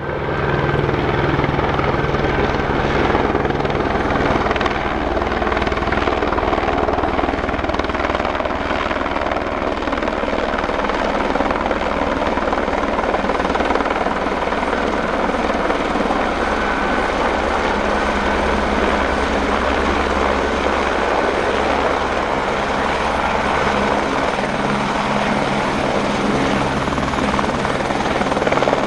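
Eurocopter AS350B3 Écureuil helicopter coming in to land, its main rotor beating and turbine running with a faint high whine. The sound is loud and steady throughout.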